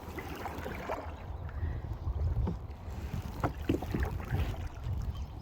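Kayak paddle dipping and splashing in the lake water in a few irregular strokes, over a steady low rumble of wind on the microphone.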